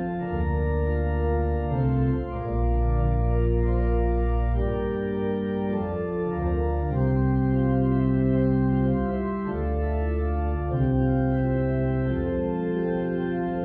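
Church organ playing slow, sustained chords over deep bass notes, the chords changing every second or two.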